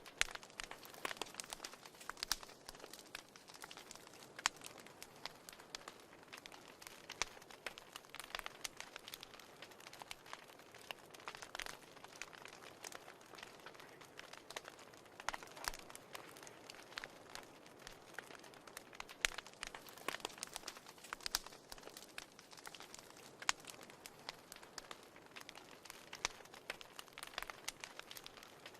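Fire in a fireplace crackling: irregular sharp pops and snaps over a faint steady hiss.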